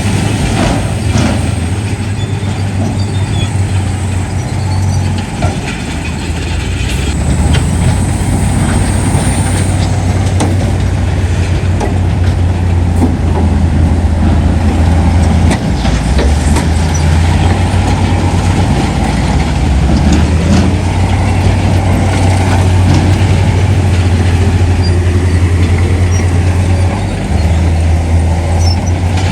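Heavy diesel earthmoving machinery running, a loud steady deep engine drone with occasional knocks and clanks over it.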